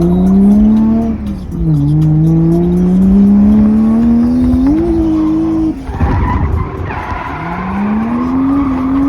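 Drift car engine held high in the revs with tyres squealing and skidding as it slides. The engine note climbs slowly, dips sharply about a second and a half in and again near the middle, then climbs once more.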